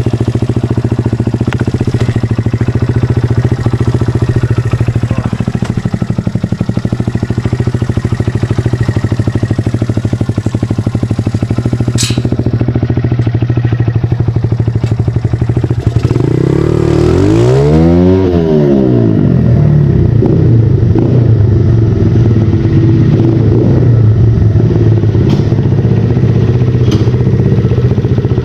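Honda XR80 pitbike's small four-stroke single-cylinder engine running under way, revving up and dropping back down once about two-thirds of the way through.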